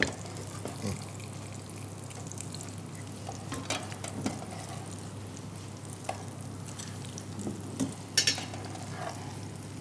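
Breaded chicken escalopes frying in a pan with a steady gentle sizzle. A few sharp clicks of metal tongs against the pan come as the pieces are turned.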